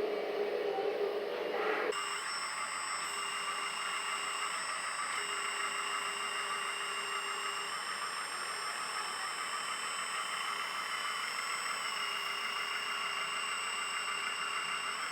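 Hydraulic pump of a LESU 1/14 LT5 RC skid-steer loader running with a steady electric whine while its hydraulic cylinders are worked, the pitch shifting in steps about two seconds in and again every few seconds as the load changes.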